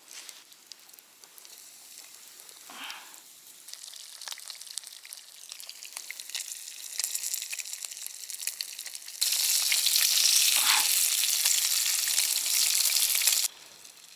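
Small semolina-breaded perch frying in oil in a pan, sizzling and crackling. The sizzle grows, then turns much louder about nine seconds in and cuts off suddenly about four seconds later.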